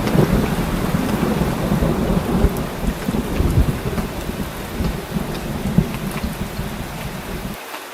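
Heavy rain falling steadily, with a continuous low rumble of thunder. The rumble cuts out suddenly near the end, leaving only the rain's hiss.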